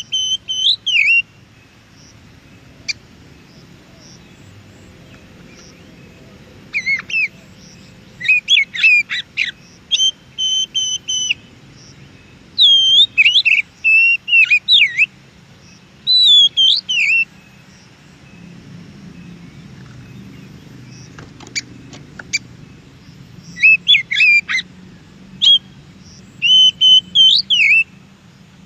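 Oriental magpie-robin singing in short bursts of varied whistled phrases and chatters, a few seconds apart, over a faint low background hum.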